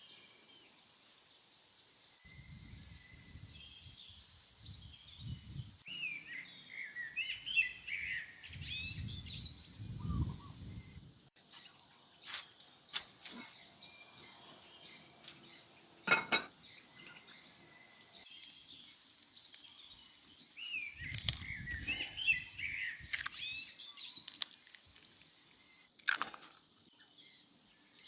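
Birds chirping in quick twittering spells, with low rumbles and a few sharp knocks, the clearest about two-thirds of the way through and another near the end.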